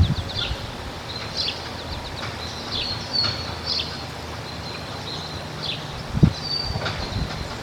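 Small birds chirping in short repeated calls over low outdoor background rumble, with a single low thump about six seconds in.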